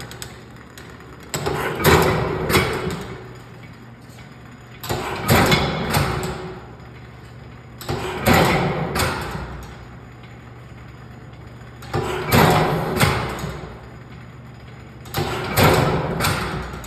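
1875 one-horsepower Otto & Langen atmospheric gas engine running slowly: five working cycles, irregularly spaced three to four seconds apart. Each cycle is a sharp knock followed by about a second of rattling and clanking, with a steady low hum between them.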